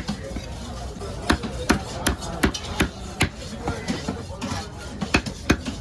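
A heavy fish-cutting knife chopping into a large trevally on a cutting block: a dozen or so sharp chops at an irregular pace, roughly two a second.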